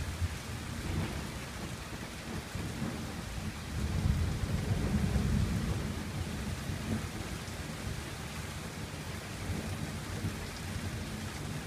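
Rain hitting a gazebo roof, a steady patter that sounds like a downpour though the rain is light. A low rumble of thunder swells about four seconds in and dies away over a couple of seconds.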